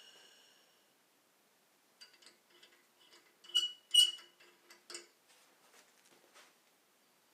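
Metal items clinking and tapping against each other, about a dozen light clicks with two louder ringing clinks near the middle. At the very start a thin whistle fades out, as the nitrogen flow through the brazed copper tube bleeds off after being shut.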